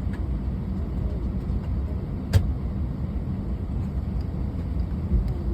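Steady low rumble inside the cabin of an Airbus A321 on the ground during pushback, with one sharp click a little before halfway.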